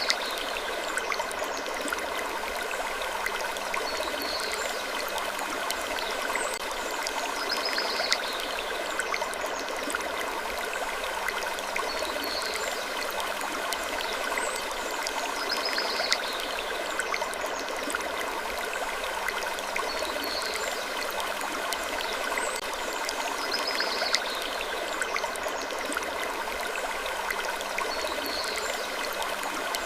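Gentle wood creaking that recurs about every four seconds, in a repeating loop, over a steady hiss.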